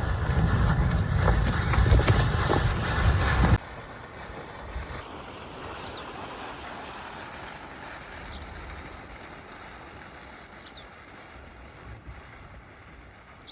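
Wind buffeting the microphone as a loud low rumble, which cuts off abruptly about three and a half seconds in. After that comes a much quieter steady hiss with a few faint, short high chirps.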